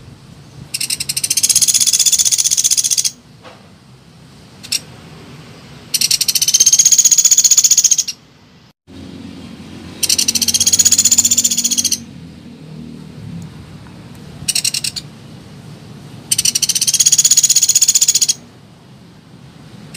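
Pelatuk beras woodpecker calls from a lure recording: loud, high, very rapid trills about two seconds long, four of them, with brief shorter calls between.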